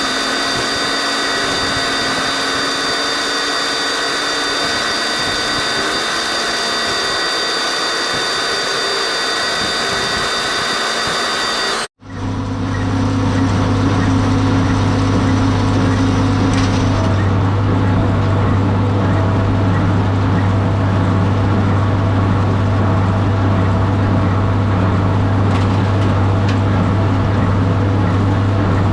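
Tractor running steadily while baling hay, with an abrupt cut about twelve seconds in: before the cut, a steady high-pitched whine over the machine noise; after it, a deeper, steady engine hum.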